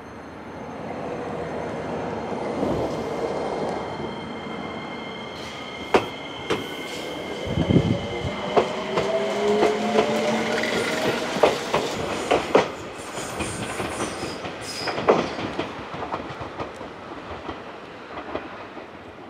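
Electric train running along the track, growing louder over the first few seconds, with sharp clicks of wheels over rail joints from about six seconds in and a whining, squealing tone in the middle stretch.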